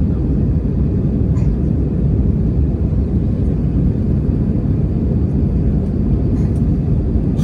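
Steady low rumble inside the cabin of an Airbus A320 in flight: engine and airflow noise heard from a window seat.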